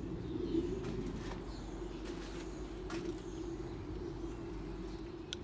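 Outdoor background: a few faint bird chirps over a steady low hum, with a couple of light knocks.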